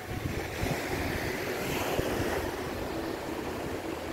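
Choppy sea waves surging and washing in, swelling about half a second in and easing after two seconds, with gusty wind buffeting the microphone.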